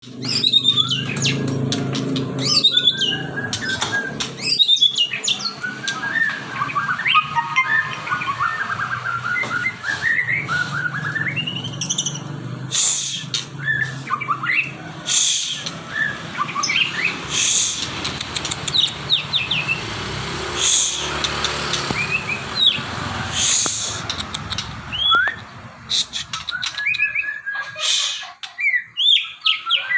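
Caged murai (Copsychus songbird) singing: a long, varied song of whistled rising and falling notes and quick runs of chirps, with a few short clicks.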